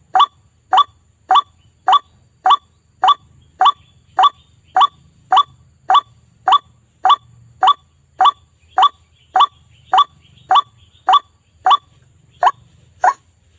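White-breasted waterhen (ruak-ruak) calling: a short, sharp note repeated at an even pace of a little under two calls a second, played as a bird-lure recording.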